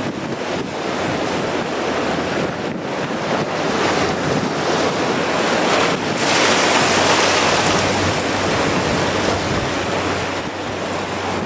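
Strong gale blasting across the microphone, a rough, loud rush that gusts harder about six seconds in and eases again.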